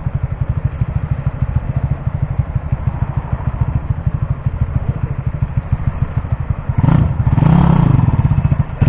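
Kawasaki KSR 110 minibike's small single-cylinder four-stroke engine running at low, steady revs with a fast, even firing beat, then revved up louder about seven seconds in and held for over a second.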